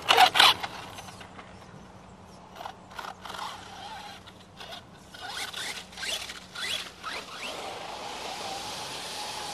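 Helion Invictus electric RC monster truck's motor and drivetrain whining in short bursts of throttle, the pitch rising in each burst, loudest at the very start. Near the end a steady rushing noise takes over.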